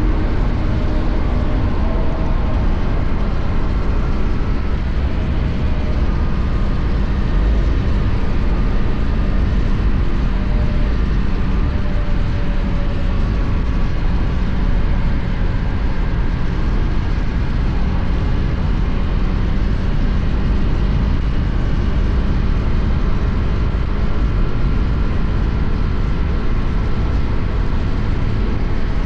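KTM Duke 250's single-cylinder four-stroke engine running steadily at highway cruising speed, heard from the rider's position over a constant rush of road noise.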